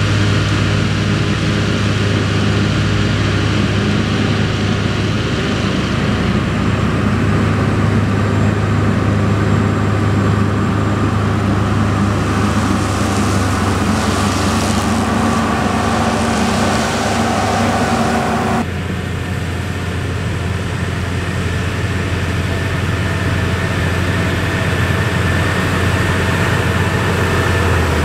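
Heavy diesel farm machinery running steadily under load. The sound changes abruptly about two-thirds of the way through to a different engine's steady note.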